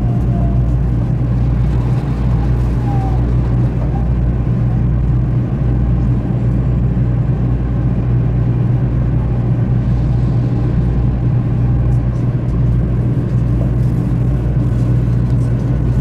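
Shinkansen bullet train running, heard from inside the passenger cabin: a steady, unchanging low rumble.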